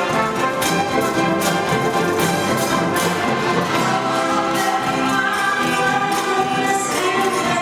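Orchestra and choir performing live: held choral and orchestral chords over a steady beat.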